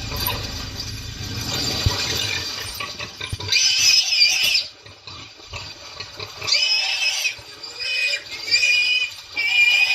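Waterbuck squealing in distress under a lion attack. A low rumbling noise comes first, then high-pitched squeals of up to about a second each, repeated several times from about a third of the way in.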